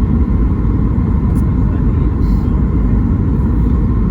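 Steady low rumble of a Boeing 737 MAX 8 airliner's cabin, engine and airflow noise heard from a window seat near the rear.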